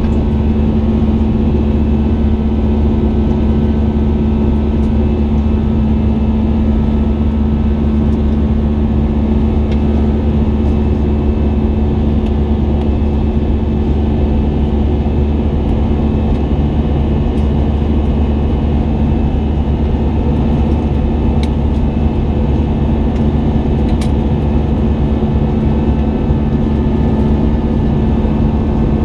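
Steady cabin noise inside an Airbus A320 in flight: the engines' drone with a constant hum and low rumble over airflow noise, holding level throughout.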